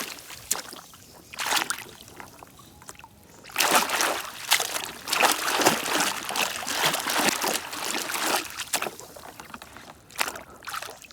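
Water splashing and trickling in irregular surges as a muddy toy bicycle is washed by hand, with a few small knocks of the plastic toy.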